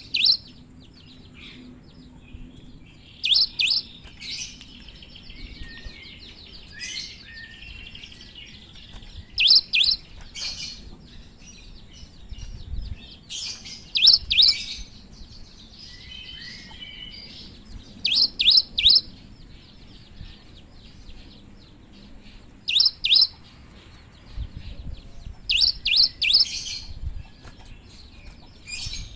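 Cinereous tit (gelatik batu) singing: loud clusters of two or three sharp, high notes repeated every few seconds, with softer twittering and chattering between them.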